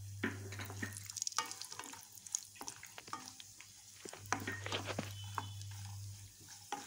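Cashew nuts frying in ghee in a non-stick pan, with a light sizzle and the scraping and tapping of a wooden spatula stirring them. A low hum under it stops about a second in, returns around four seconds in, and stops again near the end.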